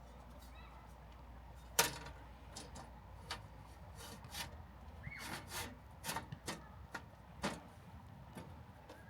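A series of sharp, irregular clicks and knocks, like objects being handled. One loud knock comes about two seconds in, and a brief rising chirp sounds midway.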